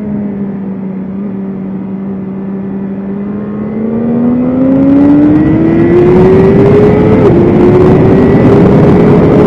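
BMW S1000RR inline-four engine held at lower revs for about three seconds, then accelerating with a steadily rising pitch, a short step about seven seconds in as it upshifts, and running high toward the end. A rush of noise grows louder as the bike speeds up.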